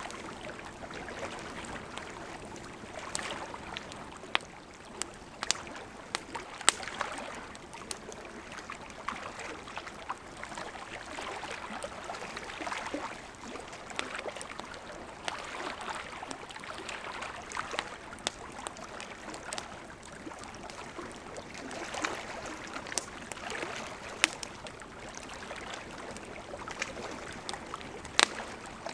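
Wood campfire burning: a steady hiss of flames with frequent sharp crackles and pops, and a few louder snaps scattered through.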